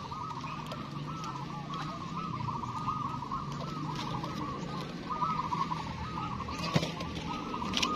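Many zebra doves (perkutut) cooing at once, their looping notes overlapping in a continuous chorus over a low steady murmur, with a sharp click near the end.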